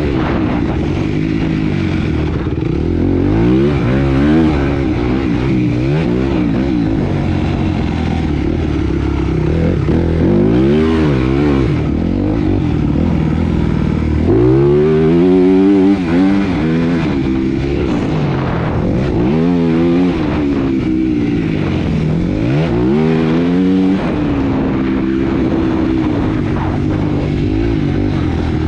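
Motocross bike engine running hard around the track, its pitch repeatedly climbing under throttle and dropping off as the rider shifts and brakes into corners.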